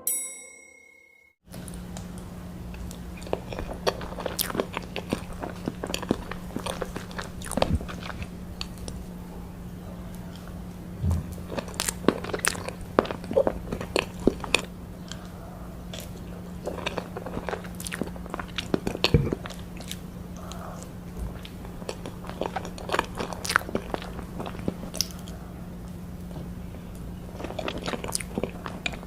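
Close-miked eating of cake slices: bites and chewing, with frequent irregular crisp crackles, over a steady low hum.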